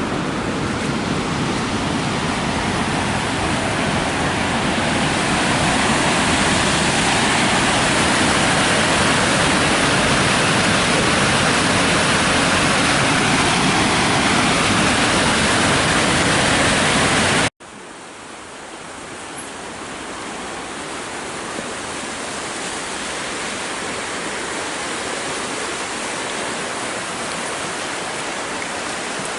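Waterfall, a steady even rush of falling water. Past halfway it cuts off abruptly and comes back quieter and thinner, then slowly builds louder.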